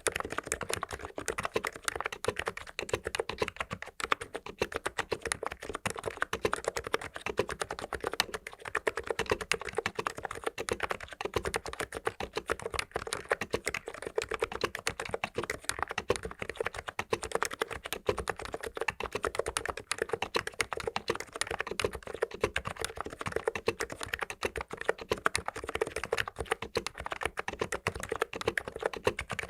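Continuous fast typing on an ABKO KN02C tenkeyless keyboard with 45 g capacitive (electro-capacitive, Topre-style) switches: a steady stream of keystrokes.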